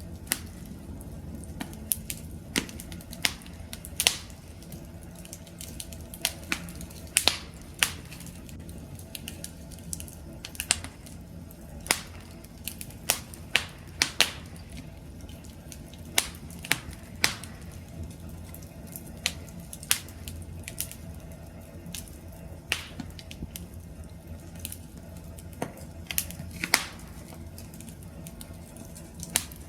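Wood campfire crackling: irregular sharp pops and snaps, roughly one or two a second, over a low steady rumble of the flames.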